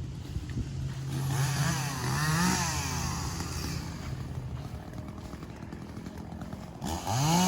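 Chainsaw engine running, revved up sharply about two seconds in, easing back, then revved again near the end.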